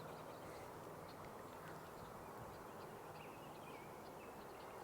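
Faint outdoor ambience: a steady soft hiss with a low hum under it, and scattered faint, high-pitched bird chirps.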